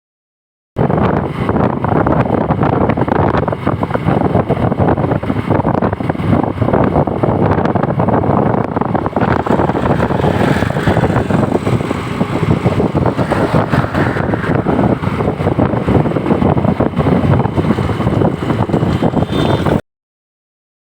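Loud, steady rushing wind noise buffeting the microphone, starting and cutting off abruptly.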